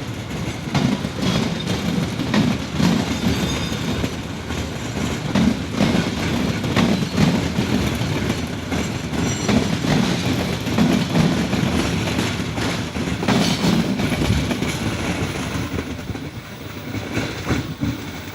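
Indonesian passenger train running on the rails, a continuous rumble with irregular clattering clicks and knocks from the wheels and cars.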